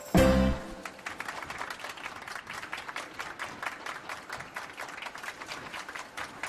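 A single loud hit with a short ringing tail at the start, then a crowd applauding steadily.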